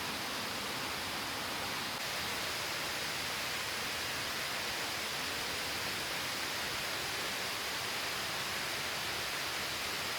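Steady, unbroken rushing hiss of falling water.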